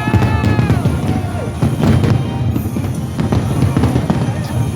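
Fireworks barrage: a dense, continuous rumble of booms with many sharp bangs, over music with a sweeping, rising-then-falling tone in the first second.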